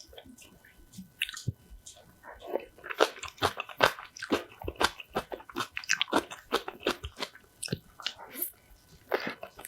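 Close-up crunchy chewing of kimchi, starting sparse and turning into a fast run of sharp crunches, several a second, from about two seconds in.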